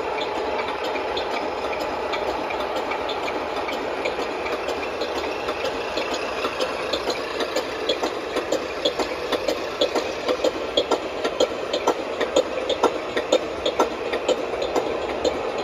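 A 1/14-scale RC truck runs with a steady engine-like hum, and sharp clicks come more and more often from about six seconds in.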